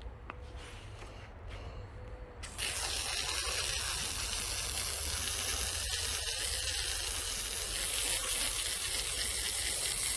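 A hose sprays the freshly cut walnut slab. The hiss starts suddenly about two and a half seconds in and then runs steadily, over a constant low hum.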